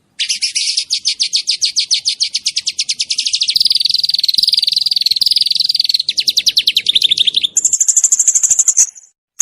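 Small songbird singing fast, dense 'shooting' trills: long runs of rapid repeated high notes that change phrase every second or two, ending in a higher, even trill that breaks off shortly before the end and then starts again.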